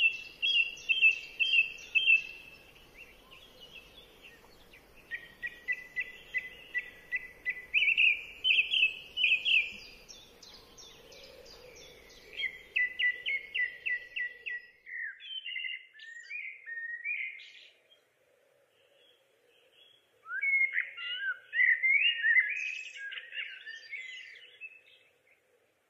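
Birdsong: runs of quick repeated chirping notes and trills, with a brief silence about two-thirds of the way through.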